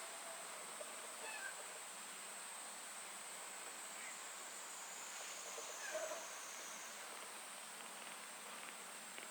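Faint high mews from a kitten, a few short calls that fall in pitch, the loudest about six seconds in, over a steady background hiss.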